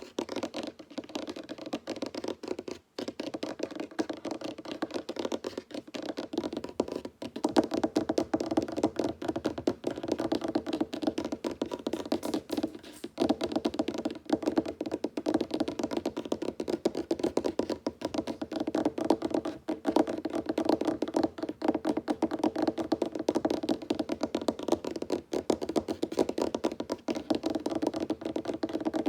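Fingertips and nails tapping fast on a wooden tabletop, a dense continuous patter of quick knocks that grows louder and busier after a few seconds.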